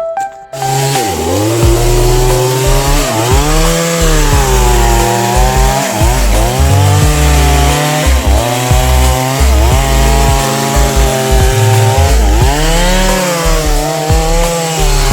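Chainsaw running hard, its pitch dipping and recovering every second or two as it bogs down under load and speeds up again, as when cutting wood.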